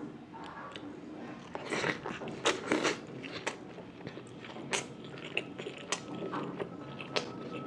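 Close-miked eating: a person biting and chewing chole kulche (spiced chickpeas with kulcha bread), with many short wet mouth clicks, busiest about two to three seconds in.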